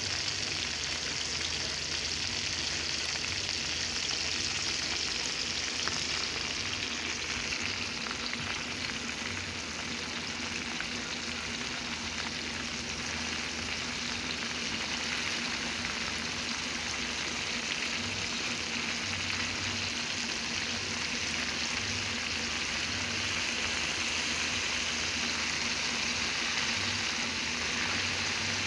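Chicken pieces frying in a pan of hot oil: a steady sizzle.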